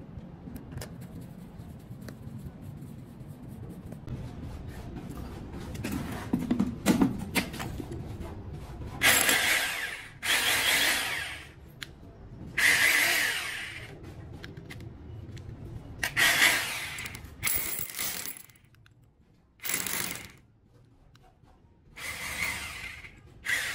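Electric concrete drill switched on and run in six short bursts of a second or so each, after several seconds of quieter handling noise.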